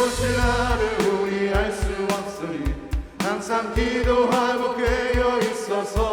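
Church praise team singing a gospel worship song, with several voices over band accompaniment and a steady low drum beat.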